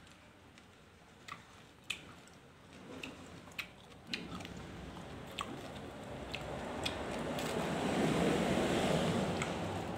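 A person chewing and biting crunchy shredded green papaya salad, with scattered sharp crunches and clicks. A broad rushing noise swells up over the second half and begins to fade near the end.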